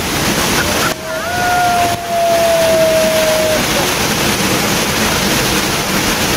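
Waterfall on the Rogue River rushing steadily and loudly. About a second in, a long, steady whistle-like tone rises slightly and holds for about two and a half seconds over the roar.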